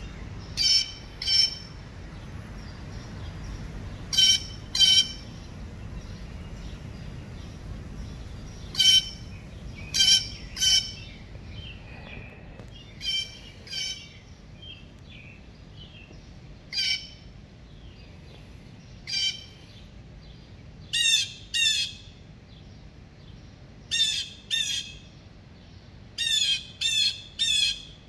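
A bird giving short, harsh squawking calls, mostly in pairs, repeated every few seconds, with a quick run of three near the end.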